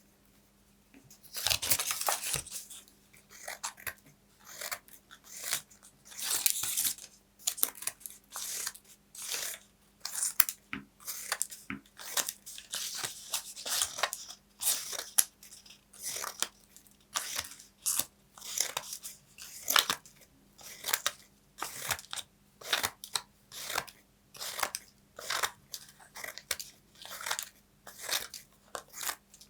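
Paper crunching in a run of short, crisp strokes, about one to two a second, starting a little over a second in.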